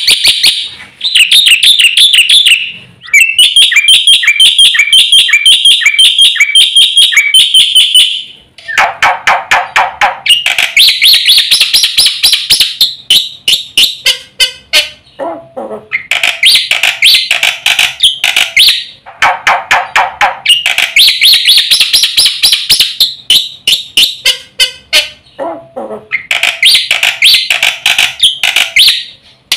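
Black-winged myna (Javan white starling) singing loudly in fast runs of rapidly repeated chattering notes. The phrases last a few seconds each, with short breaks between them.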